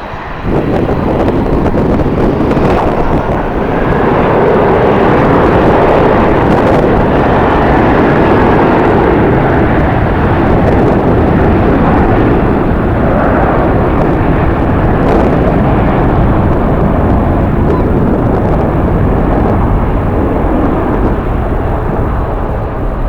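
Steady roar of a jet airliner's engines, mixed with strong wind on the microphone; it jumps up about half a second in and stays loud.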